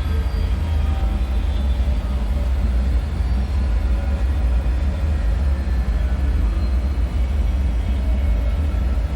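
Dark ambient drone of an underground bunker: a steady, deep rumble with faint drifting metallic tones over it.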